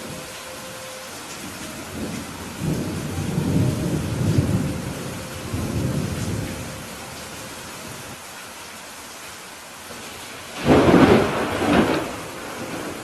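Steady rain falling, with thunder rumbling for a few seconds from about two and a half seconds in, then a louder, sharper thunderclap near the end.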